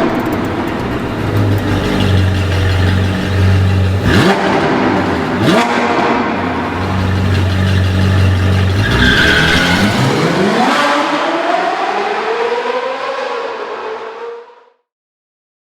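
Ferrari F50's naturally aspirated 4.7 L V12 accelerating hard, its pitch climbing and breaking at gear changes twice. It then makes one long climb that fades out near the end.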